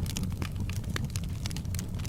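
Wood fire crackling in a fireplace, with frequent small sharp pops and one louder pop about a second in, over a steady low rumble.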